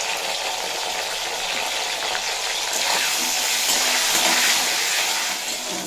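Cauliflower florets sizzling as they fry in hot mustard oil in a kadai, a steady hiss that grows a little louder about halfway through as a spatula stirs them.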